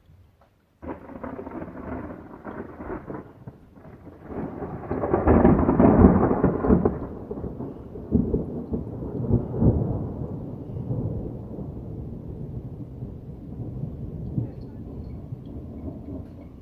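Thunder: a sudden crack about a second in that builds to a loud peak and then rolls on as a long rumble, slowly fading.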